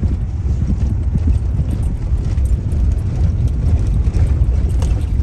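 Road noise inside a moving car: a steady, heavy low rumble of tyres and engine, with scattered light knocks and rattles from a rough, dusty road surface.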